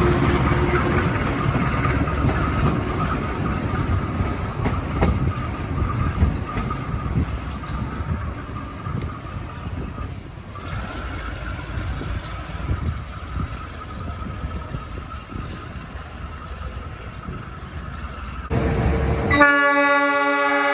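Passenger train running over the rails, with rumble and wheel clatter that slowly fade. About nineteen seconds in, a locomotive's horn sounds, a loud chord of several notes held steady.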